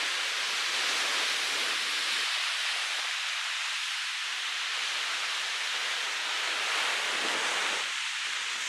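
Ocean surf and strong wind heard as one steady rushing hiss, with a rough, active sea breaking below.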